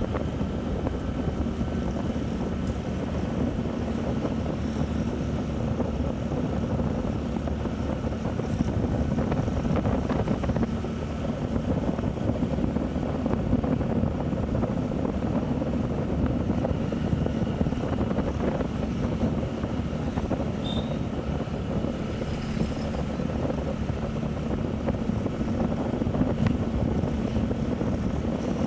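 Motorcycle running at a steady cruising speed, its engine hum even with no revving, mixed with wind rushing over the microphone.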